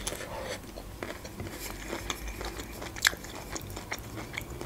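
A person biting and chewing a broccoli floret: irregular crunchy mouth clicks, one sharper crunch about three seconds in.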